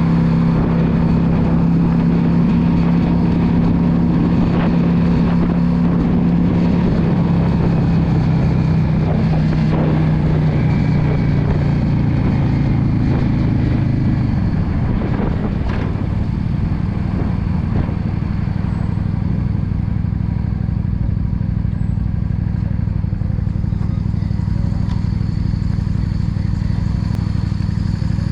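Yamaha V Star 650's air-cooled V-twin engine running steadily while riding, with wind and road noise. About halfway through, the engine note drops as the bike eases off and slows, then holds at a lower, steady pitch.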